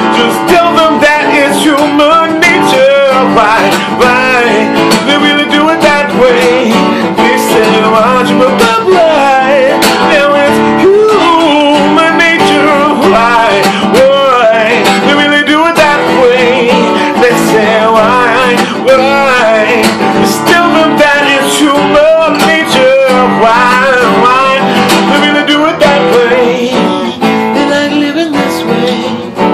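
Guitar playing an instrumental passage of the song: a melody with many bent, wavering notes over steady chords.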